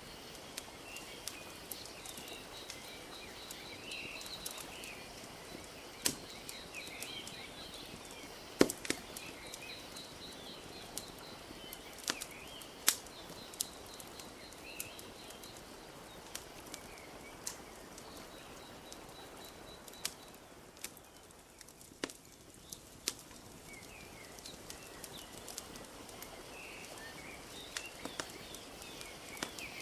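Wood fire crackling, with sharp pops at irregular intervals, over a steady soft wash of lake water lapping. Birds chirp throughout, along with a fast, high trill; these drop away for a few seconds past the middle and then return.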